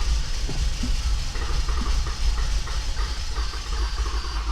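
Toyota Avalon engine being cranked over by its starter in a long crank, a steady mechanical run of low pulses without the engine catching cleanly. The hard start is put down to water that got into the fuel injectors and spark plugs.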